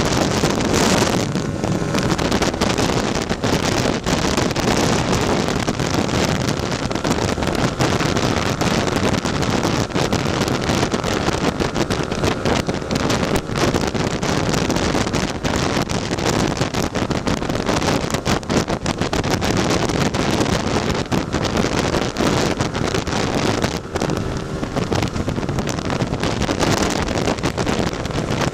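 Tuned Lambretta scooter's two-stroke single-cylinder engine running steadily at road speed, half buried under heavy wind buffeting on the microphone.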